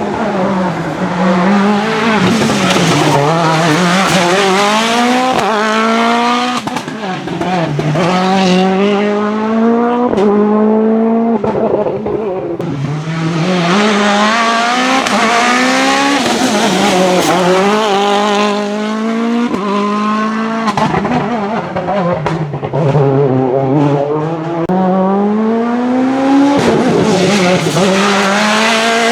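Citroën DS3 WRC rally car's 1.6-litre turbocharged four-cylinder engine accelerating and lifting off again and again. Its pitch climbs in short steps as it shifts up, drops when the driver lifts, and climbs again.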